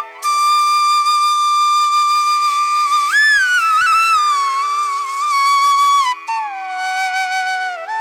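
Background music: a flute playing a slow melody of long held notes with slides between pitches, over a steady drone. A long high note gives way about three seconds in to a slide up and back down, then a lower held note near the end.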